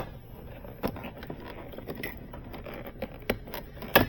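Plastic door-trim bezel being worked loose from a car's interior door panel by hand: light scraping and rustling with a few sharp clicks, the loudest near the end.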